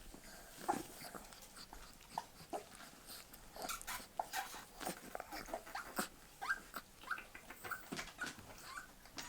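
Young bull terrier puppies whimpering, a string of short, high squeaks that come thick and fast from about a third of the way in, with scattered small clicks among them.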